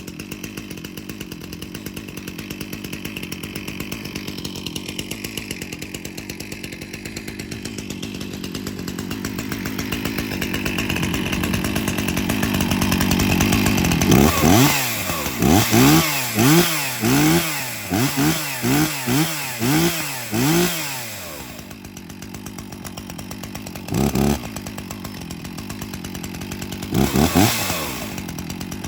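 Stihl MS 360 two-stroke chainsaw running after a cold start: it idles steadily, then is revved up and down in a quick series of throttle blips for about seven seconds, drops back to idle, and is blipped twice more near the end.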